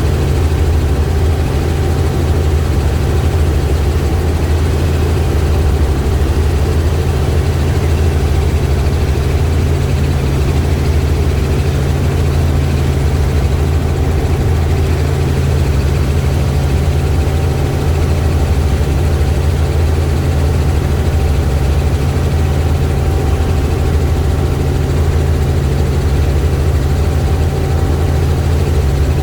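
Helicopter in flight, its engine and rotor making a steady, loud low drone with a faint whine above it.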